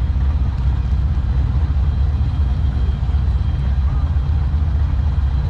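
Steady low rumble of a car engine running nearby, with faint voices in the background.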